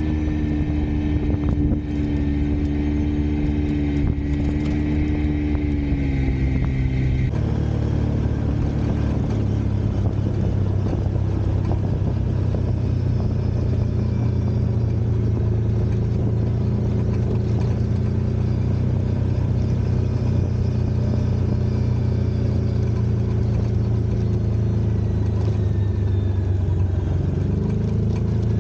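Off-road vehicle engine running steadily under way, its note changing about seven seconds in and rising briefly near the end.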